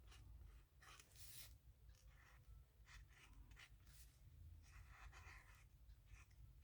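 Faint scratching of a marker tip drawn across paper in short, irregular strokes.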